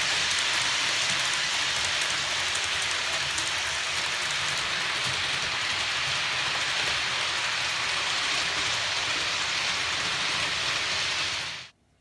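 Hornby HST model train running on its track with a steady hiss-like rush of wheels and motor, faint ticking over it. It cuts off suddenly near the end.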